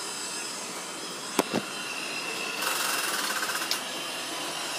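Reed 6x18 surface grinder running with a steady hum and several high steady tones. Two sharp knocks come about a second and a half in, then about a second of rattling scrape.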